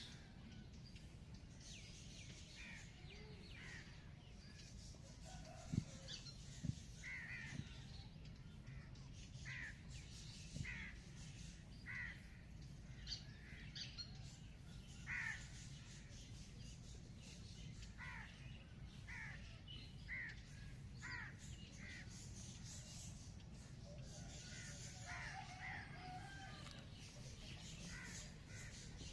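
Birds calling outdoors, a long string of short, falling calls about a second apart, over a faint steady low rumble. Two sharp clicks stand out about six and seven seconds in.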